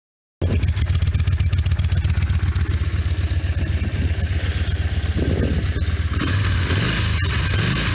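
V-twin motorcycle engine running steadily through its exhaust, a low even pulsing, starting abruptly half a second in and a little louder from about six seconds in.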